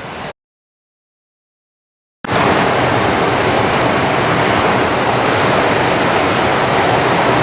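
Heavy rain: a loud, steady hiss of downpour that starts abruptly about two seconds in, after a short stretch of total silence.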